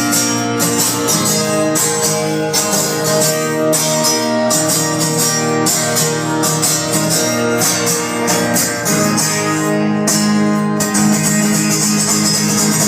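Live music: guitar strummed steadily, with no singing.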